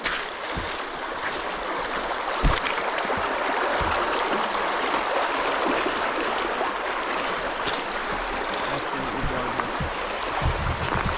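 Shallow creek running steadily over stones. A few dull low thumps sound over it, one about two and a half seconds in and a few more near the end.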